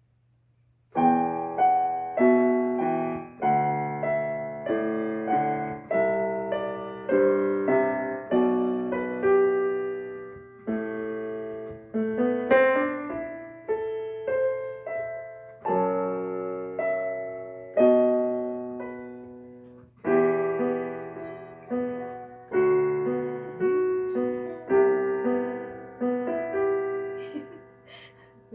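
Piano played slowly, with chords and single melody notes struck one after another, each ringing and fading away. It starts about a second in and stops just before the end, over a faint steady low hum.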